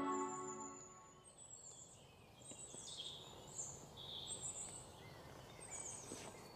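Soundtrack music fading out in the first second, then faint open-air ambience with small birds chirping every so often.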